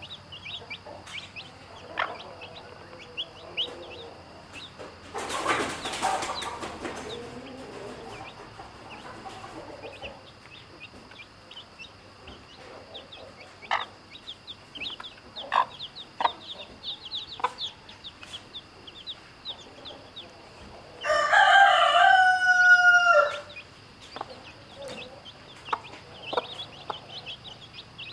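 A rooster crows once, a single loud call of about two and a half seconds, about three-quarters of the way through. Chicks peep and a hen clucks on and off throughout, with a short burst of rustling noise about five seconds in.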